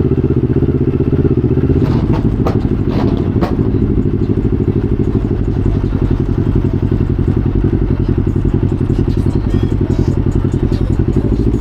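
Motorcycle engine running steadily at an even pitch. A few sharp clicks or knocks come about two to three and a half seconds in.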